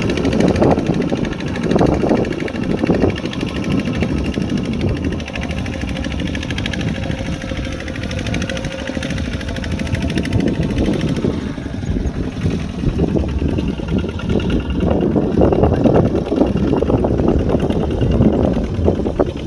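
Kubota RT140 Plus single-cylinder diesel engine of a two-wheel walking tractor running steadily, its level rising and falling a little.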